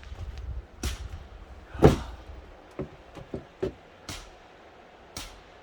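Sharp cracks of an axe striking and splitting firewood logs, a blow every second or so, the loudest and heaviest about two seconds in, with a few lighter knocks between.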